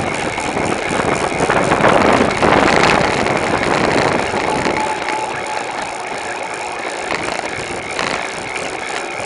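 Steady wind and road noise from a bicycle-mounted camera while riding, louder about two to three seconds in.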